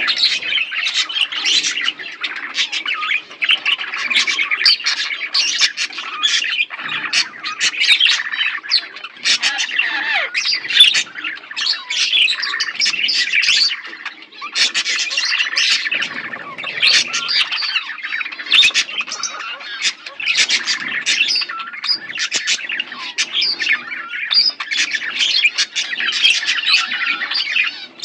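A flock of budgerigars chattering and chirping together, many birds calling over one another in a dense, continuous warble with sharp squawks.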